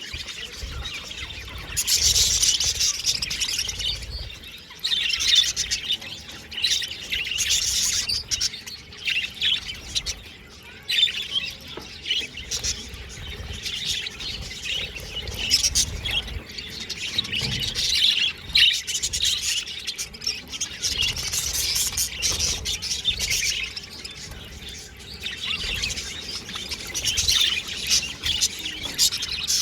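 Several budgerigars chirping and warbling in a continuous busy chatter that comes in bursts.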